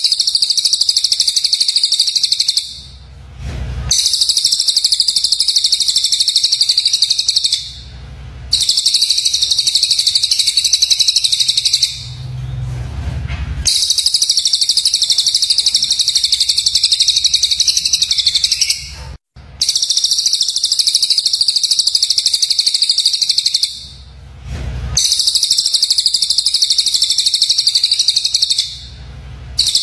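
Songbird song from a kicau-mania masteran recording: rapid, high-pitched chattering in stretches of four to five seconds, with short breaks of about a second between them.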